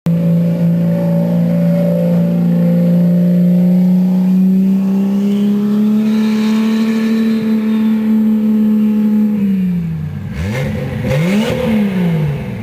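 Single-turbo Lexus SC300 inline-six engine held at high, steady revs that climb slowly, then dropping off about nine seconds in, followed by two or three sharp throttle blips that rise and fall quickly.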